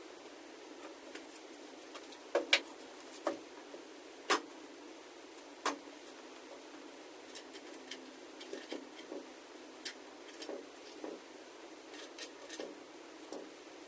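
Scattered light clicks and taps of tools and small parts being handled, the sharpest ones a few seconds in, over a faint hiss.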